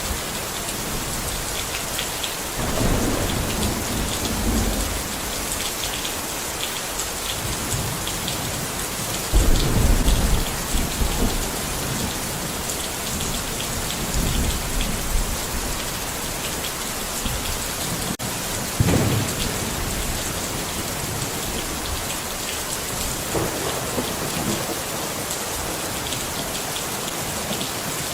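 Steady rain falling, with four low rumbles of thunder rolling through it, the loudest about nine seconds in.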